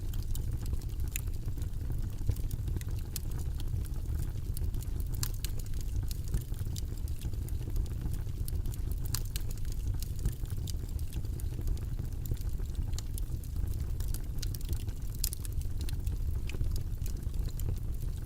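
Steady, deep white-noise background, mostly low rumble, with scattered faint clicks over it.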